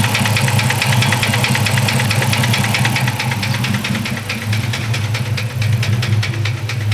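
V8 engine idling with a fast, even ticking knock over its steady hum, which the onlookers take for a failing lifter after the engine was run low on oil.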